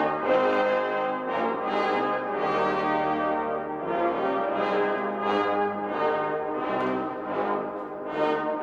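A military band's brass section playing a slow piece of sustained chords.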